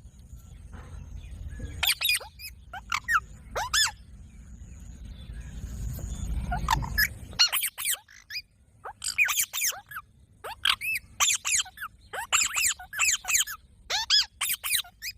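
Green parrot calling in short, sharp, high-pitched screeches, a few spaced calls at first and then a rapid run of them through the second half. A low rumble lies under the first half.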